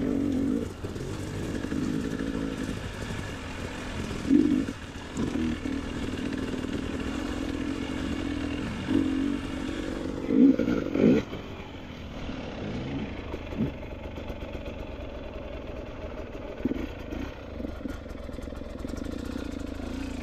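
Motorcycle engine running at low to moderate revs, with short throttle bursts about four seconds in, near nine seconds, and a stronger one around ten to eleven seconds.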